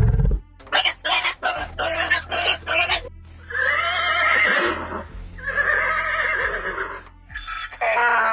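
Animal calls: about five short sharp sounds in quick succession, then two long pitched calls of a second and a half to two seconds each, with another call starting near the end, over a steady low hum.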